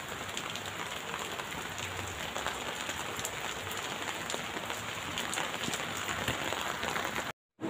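Rain falling steadily on wet concrete and potted plants, a dense, even patter of drops. It cuts off abruptly near the end.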